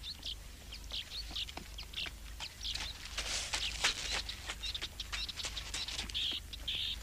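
Small birds chirping in short, high calls throughout, with scattered faint clicks and crackles between them.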